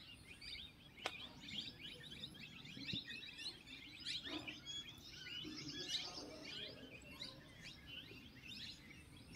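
Several birds chirping: many short, quick notes that fall in pitch, overlapping one another.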